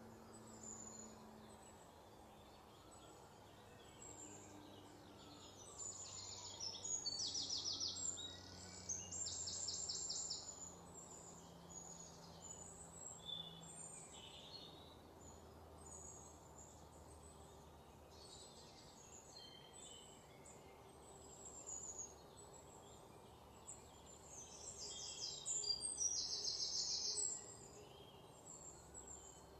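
Small birds chirping, with a few fast, high trills of a second or two each, three times, over a faint steady background hum.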